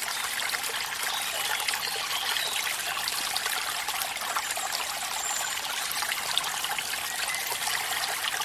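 Water trickling and splashing steadily, with fine dripping ticks and a few faint high chirps.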